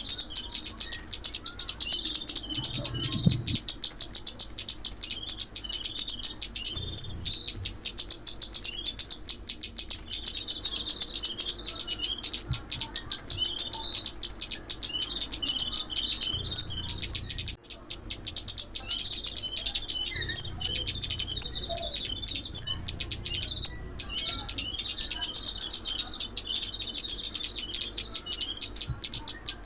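Sunbird (chim ốc mít) song played as a trapping lure: rapid high-pitched twittering phrases repeated with brief breaks, over a thin steady high tone.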